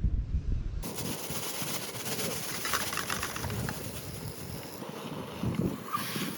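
Outdoor ambience with birds calling over a steady hiss, starting abruptly just under a second in after a brief low rumble.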